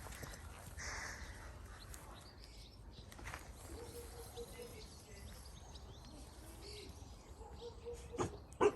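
Quiet outdoor background with faint bird chirps, then near the end a dog barks twice in quick succession, the second bark loud.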